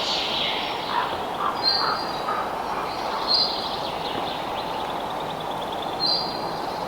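Birds chirping outdoors: a few short, high calls a second or two apart, one trailing off into a quick trill, over a steady background hiss.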